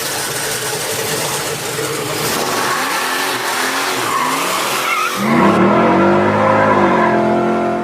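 Drag car doing a burnout, tyres spinning with a loud hiss, then the engine revving up in pitch about five seconds in as the hiss cuts off.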